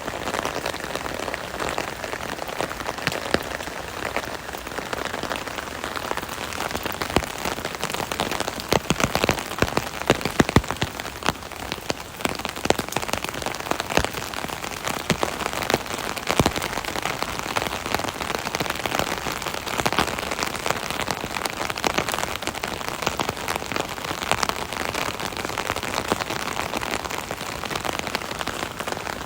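Rain falling on an umbrella overhead: a dense, steady hiss of rainfall with many sharp individual drop hits on the canopy. The drop hits are heavier and louder for a few seconds about a third of the way in.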